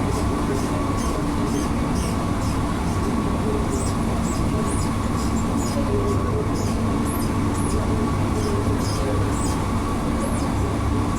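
Interior running noise of an Alstom NS-16 metro train at speed: a steady low rumble with a steady hum, and faint high-pitched ticks scattered throughout.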